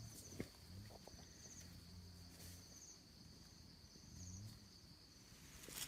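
Faint forest insects: a steady high-pitched insect drone with short repeated chirping trills every second or two, over a faint low hum.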